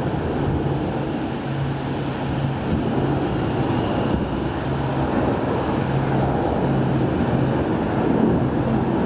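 Helicopter running steadily, with a low hum that comes and goes, mixed with wind buffeting the microphone.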